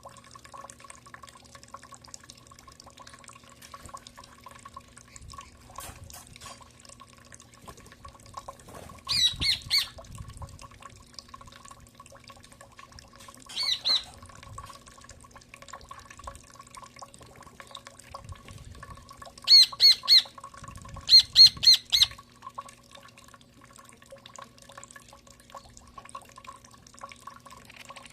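A bird calling in short repeated notes, in quick groups of three or four, four times over, with a faint steady hum and light ticking or dripping underneath.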